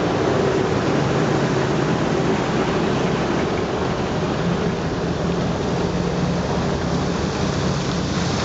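A heavy truck's engine humming steadily beneath a constant hiss of noise, with no sudden events.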